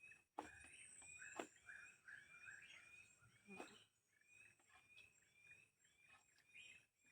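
Faint forest ambience: small creatures give short chirping calls over and over, several a second, over a faint steady high-pitched insect hum. A few sharp clicks stand out, about half a second in, a second later and again near the middle.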